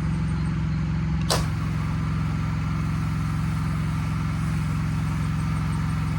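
Steady low hum of a running motor vehicle engine, with a brief whoosh about a second in.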